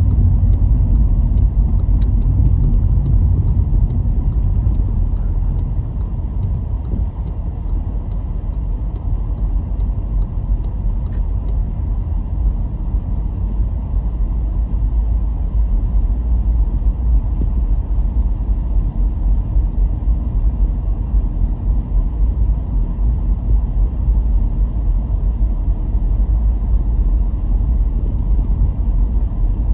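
Car driving along a road: a steady low rumble of tyres and engine that eases a little about six seconds in, then builds again.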